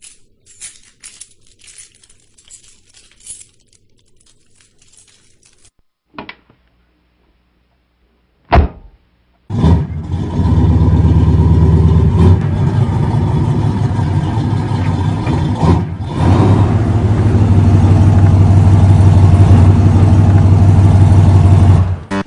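Mitsubishi Lancer Evo X rally car's turbocharged 2.0-litre four-cylinder engine starting abruptly and running loudly and steadily. Faint clicks come before it, then a loud thump just before the start.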